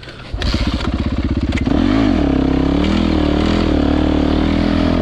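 Dirt bike engine catching about half a second in and running, with a quick rev up and down a little before the midpoint, then running with the pitch wavering under the throttle.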